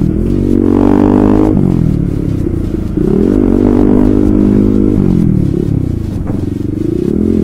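Honda CBR150R's single-cylinder engine running through a loud aftermarket racing exhaust while being ridden. The engine revs up and eases off about three times, its pitch climbing and dropping with each.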